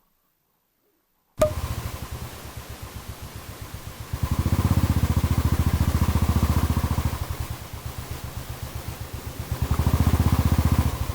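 Royal Enfield Thunderbird 350's single-cylinder engine running with a rapid, even thump. It starts suddenly about a second and a half in, grows louder for a few seconds in the middle and again near the end, and stops abruptly.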